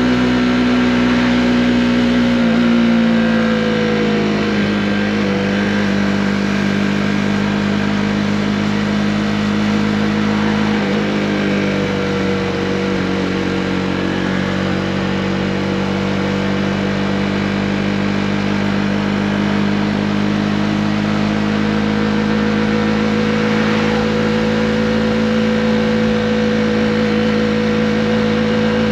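Honda CB125R single-cylinder four-stroke engine running under way at steady revs. The pitch drops a little about two and a half seconds in, dips briefly near the middle, then holds steady.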